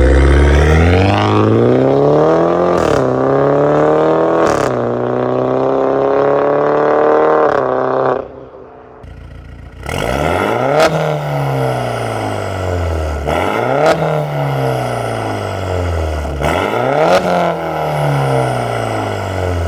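BMW G30's engine through a valved full exhaust system, accelerating hard: the revs climb and then drop sharply at each upshift of the XHP Stage 3-tuned gearbox. About eight seconds in it goes quiet for a moment, then another run of rising revs broken by quick drops at the gear changes.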